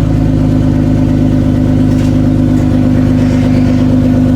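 Toyota Cressida MX83's engine idling steadily on its first start after reinstallation. The exhaust is not fully plumbed in, so it is leaking.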